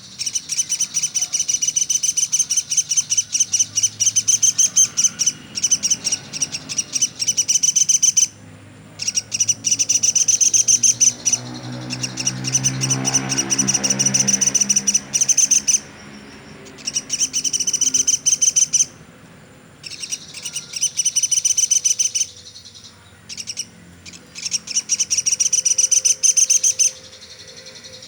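Woodpecker kept as a 'pelatuk sampit' songbird calling nonstop in fast, high-pitched rattling trills. The trills come in runs of a few seconds with short pauses between them. A low hum swells and fades in the middle.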